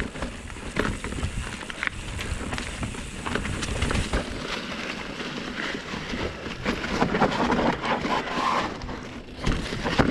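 2019 Commencal META Trail 29 mountain bike clattering down a rough rock garden: a steady rush of noise broken by irregular knocks as the tyres strike rocks and the bike rattles.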